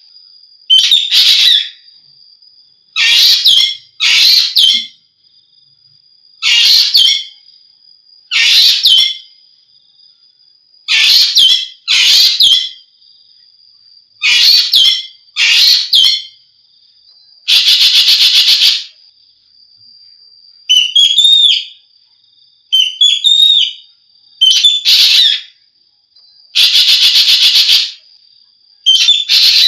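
Asian glossy starling (jovin) calling: loud, short, harsh call notes of about a second each, repeated every one and a half to two seconds, with a run of softer twisting chirps about two-thirds of the way through. A thin, steady high tone runs underneath.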